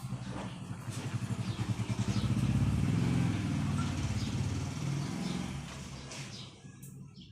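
A motor vehicle's engine passing by, growing louder to a peak about three seconds in and then fading away, with faint short high chirps above it.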